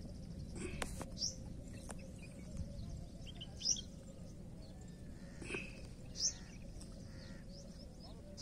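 Birds chirping now and then, short rising chirps a couple of seconds apart, over a steady low rumble.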